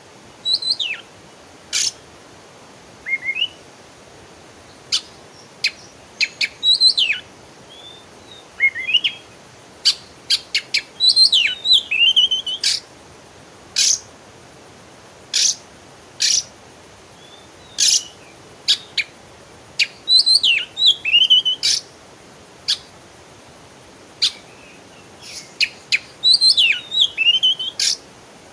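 Songbird singing: sharp single chips scattered throughout, and every several seconds a quick run of twittering phrases that slide downward in pitch, over a faint steady hiss.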